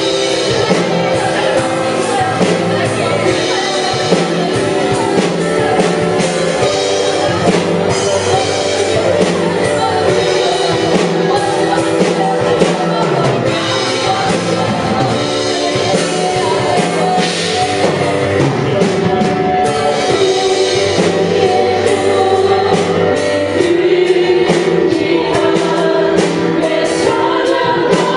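Live contemporary worship music: a praise band with drums and singers leading a congregational song.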